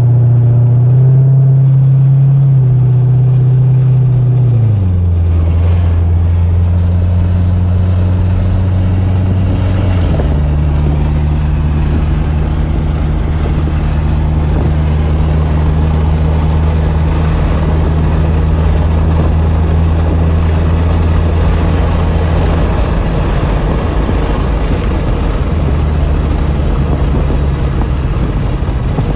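2012 Chevrolet Corvette's 6.2-litre LS3 V8 engine running under way. Its note drops about five seconds in and shifts again about ten seconds in, then holds fairly steady.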